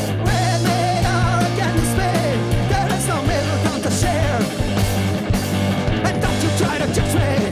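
Live rock band playing loud: guitar and drums over a held bass note, with a wavering melodic line on top.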